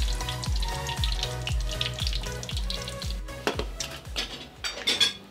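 Tempura frying in hot oil, a steady sizzle, under background music with a beat of about two a second. In the second half, metal tongs clink against a steel bowl.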